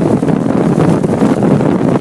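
Loud, steady wind rushing over the microphone of a moving motorcycle.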